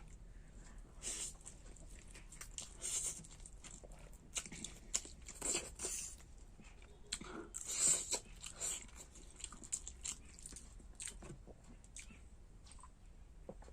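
A person eating cooked masala Maggi noodles close to the microphone: irregular chewing and mouth sounds, a few loud bursts among quieter ones.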